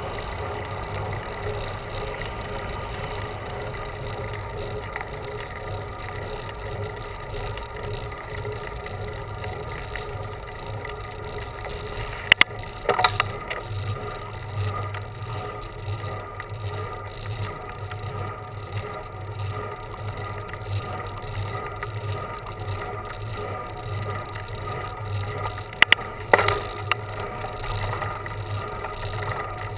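Bicycle being ridden, a steady hum of tyres and wind, with a pair of sharp clicks or knocks about halfway through and another pair near the end.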